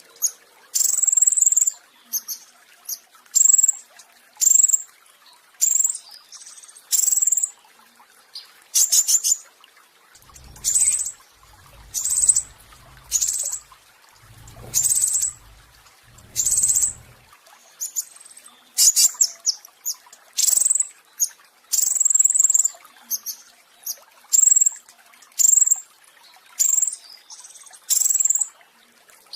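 A petis raja songbird singing its 'roll tembak' song: a steady run of loud, sharp, high-pitched notes, about one a second, broken now and then by quick rattling trills.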